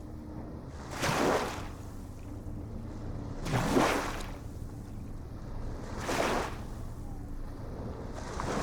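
Small waves washing in about every two and a half seconds, each a rush that swells and fades, over a steady low rumble of water.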